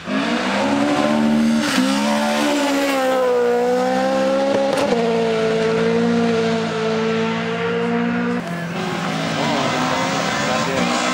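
Toyota Corolla GT rally car's engine running hard at high revs. Its note rises and steps with gear changes about two, five and eight seconds in, with some tyre squeal on the loose surface.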